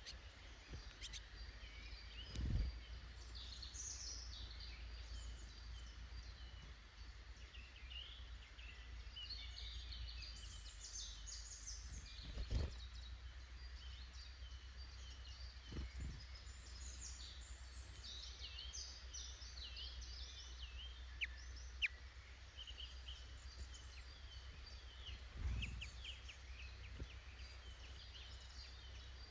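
Small woodland birds chirping and calling, several overlapping, with a steady low rumble underneath and about four dull thumps spread through.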